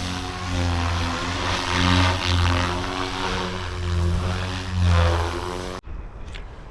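GooSky RS4 electric RC helicopter in flight, its rotor blades and direct-drive brushless motor giving a steady low hum that swells louder and softer several times. The sound cuts off abruptly near the end.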